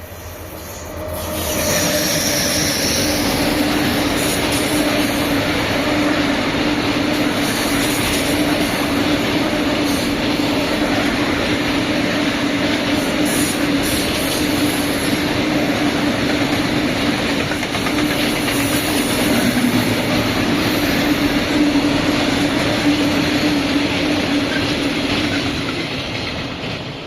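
A train passing close by: the noise builds over the first couple of seconds, then holds as a steady rolling rumble and rattle of the wagons with a constant tone running through it, easing off near the end.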